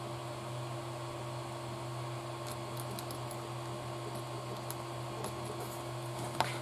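Faint small clicks and taps of plastic and metal kit parts being handled as a pin is pushed into an RC car's drive shaft, with one sharper click near the end, over a steady low hum.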